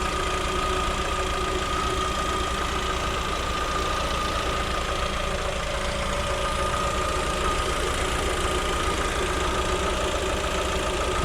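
Lada Vesta's four-cylinder petrol engine idling steadily with the bonnet open, an even running beat under a steady whine. No crankshaft knock is heard, and the evaporative canister (adsorber) purge valve is not ticking loudly.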